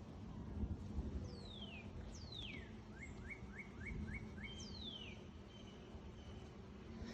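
A wild bird calling: three clear whistles that slide steeply down in pitch, and between them a quick run of six short rising notes. Under it a steady low rumble.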